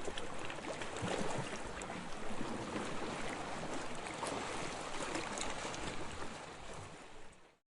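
Waves washing: a steady rush of water with fine crackles, fading out over the last second.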